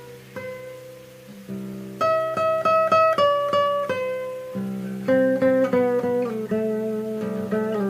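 Solo guitar improvisation. A few notes ring and fade for about two seconds, then louder picked notes repeat in quick strokes. Near the middle it moves into fuller chords whose top note steps slowly downward.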